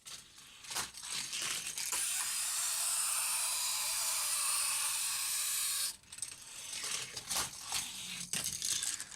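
Hot Wheels Scupa de Fuego die-cast car running along a plastic Hot Wheels track. It clatters and clicks for the first two seconds, gives a steady rushing noise for about four seconds, then clatters again before stopping suddenly.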